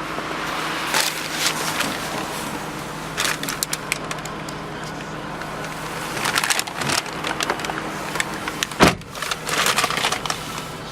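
Steady low hum of the car idling, heard inside the cabin. Over it come intermittent clicks and clunks of interior fittings being handled, with a heavier thump about nine seconds in.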